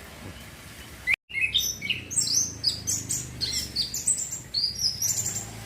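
Young male orange-headed thrush singing a rapid, continuous run of varied high chirping and warbling notes, a young bird practising its song. The sound drops out briefly about a second in, and the song starts right after.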